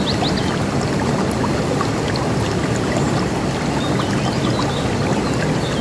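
River water rushing steadily, with birds chirping faintly over it: a quick run of high chirps right at the start and a few more about four seconds in.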